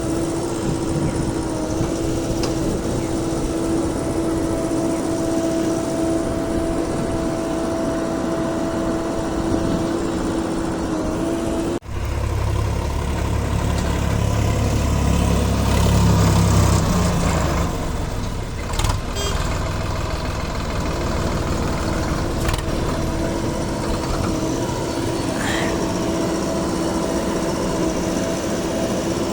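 Diesel engines of a backhoe loader and tractors running steadily. A sudden break comes about twelve seconds in, followed by a heavier, deeper rumble for several seconds before the steady engine tone returns.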